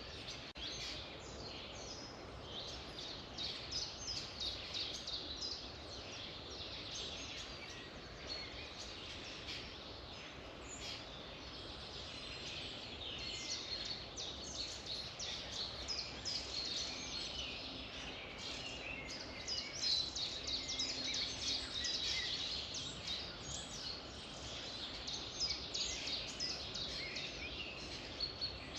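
Many birds singing at once, a dense chorus of short, high chirps and trills overlapping throughout, over a steady background noise.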